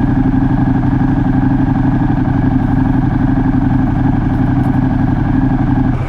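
Ducati Multistrada 1200's L-twin engine idling steadily.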